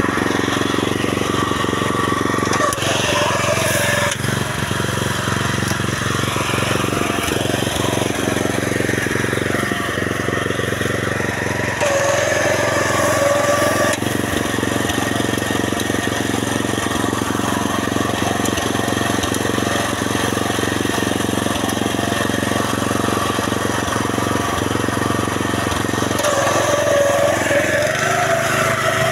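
Small petrol engine of a power weeder (rotary tiller) running steadily at working speed, a continuous engine drone with a little variation in pitch.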